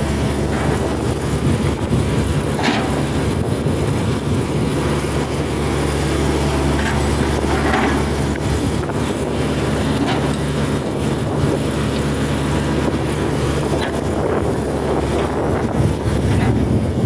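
Hydraulic excavator's diesel engine running at a steady pitch, with a few faint short knocks.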